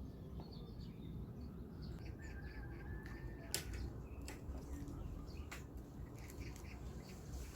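Small birds chirping and calling, with one held whistle-like note about two seconds in, over a steady low outdoor background. Several sharp clicks cut through, the loudest about three and a half seconds in.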